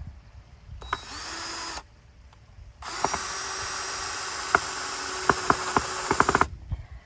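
A small motor, drill-like, whirring in two runs: a short one of about a second, then a longer one of about three and a half seconds, each spinning up at the start. Sharp clicks or knocks sound through the second run.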